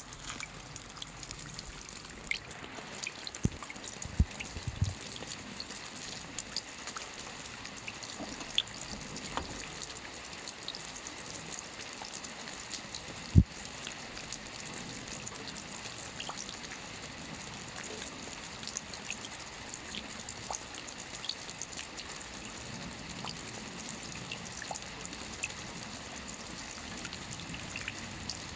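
Steady rain falling, with a patter of individual drops. A few heavier drops land close with short dull thuds, the loudest about halfway through.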